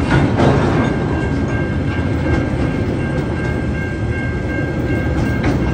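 Freight train wagons rolling past at a level crossing: a steady, heavy rumble of wheels on rail, with wheel clacks over the rail joints near the start and near the end. A thin, steady high tone runs through it.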